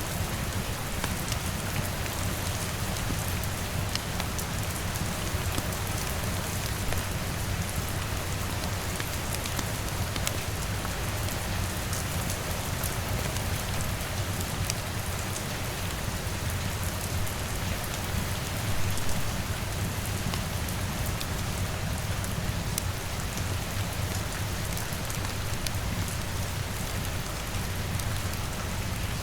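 Steady rain pattering on a window, mixed with a crackling wood fire: an even hiss of rain over a low steady undertone, with scattered sharp crackles throughout and a brief swell in loudness about two-thirds of the way through.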